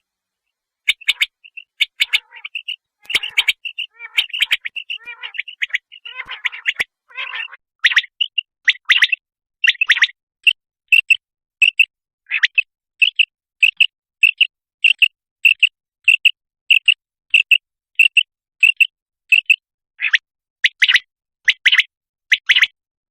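Common quail calling: short, high notes repeated in quick series. They come irregular and bunched at first, then settle into an even run of single notes, about three every two seconds, from about ten seconds in.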